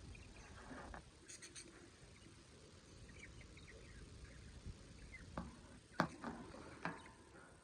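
Budgerigars chirping softly, with a few sharp clicks and taps. The loudest tap comes about six seconds in.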